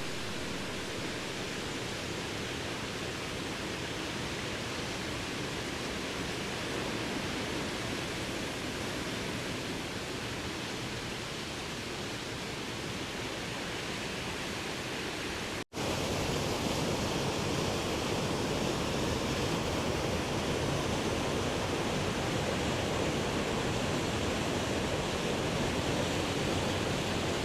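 Steady rushing of falling water. It cuts out for an instant about halfway through and comes back a little louder.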